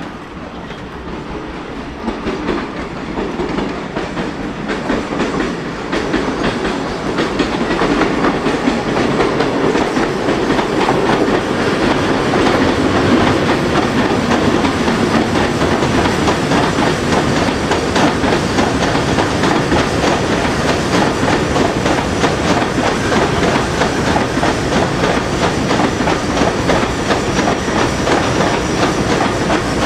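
Train running on rails, its wheels clicking over the rail joints, with a steady rumbling rush. It grows louder over the first eight seconds or so, then holds steady.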